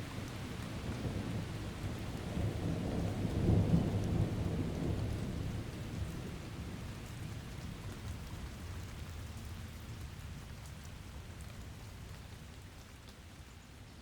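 Rolling thunder over steady rain, swelling to its loudest about four seconds in and then slowly dying away.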